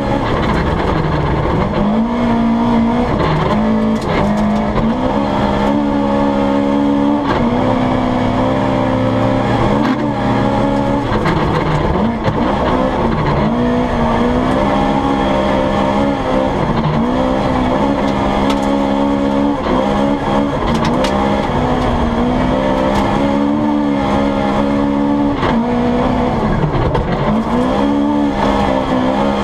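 Toyota Corolla GT rally car's engine under hard acceleration, heard from inside the cabin: it revs high, dips sharply at each gear change or lift, and climbs again, about a dozen times.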